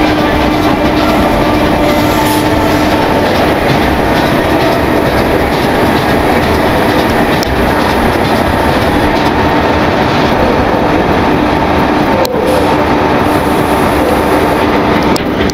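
Great Western Railway InterCity 125 High Speed Train running past on the rails: a loud, steady rush and clatter of wheels on track with a constant low hum, the diesel power car going by close about halfway through. One sharp click near the end.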